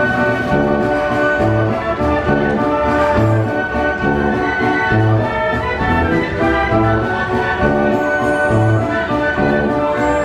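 Wurlitzer 157 band organ playing a tune, a bass note about once a second alternating with chords under the melody.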